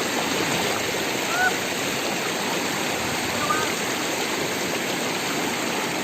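Steady rush of falling water from a waterfall, with two short faint chirps over it about one and a half and three and a half seconds in.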